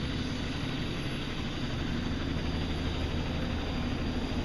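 Helicopter running steadily, its turbine and rotor making a constant drone with no change in pitch.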